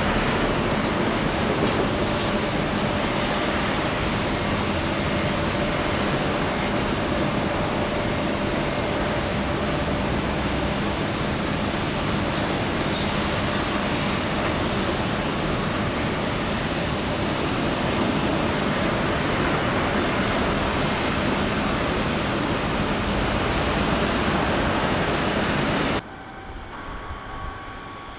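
Loud, steady rushing noise with a faint low hum, dropping away suddenly about two seconds before the end.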